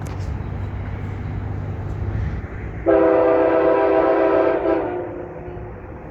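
A train's horn gives one long blast of about two seconds, starting abruptly about three seconds in and then fading, over the low rumble of an approaching train.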